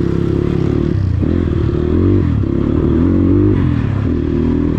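Dirt bike engine running under way, its revs dropping and climbing again a couple of times.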